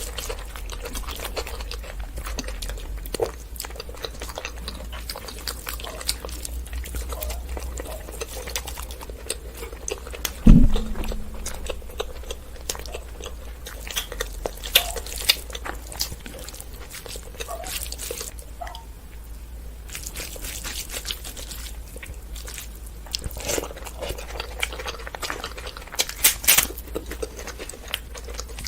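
A person eating basmati pulao and mutton curry close to the microphone: chewing and small mouth and eating clicks throughout, with one loud thump about ten seconds in.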